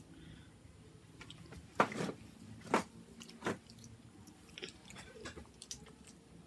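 Young children eating crispy fried chicken and spaghetti: chewing and mouth noises close to the microphone, with three louder sharp sounds about two, two and three-quarter, and three and a half seconds in, and a few small clicks.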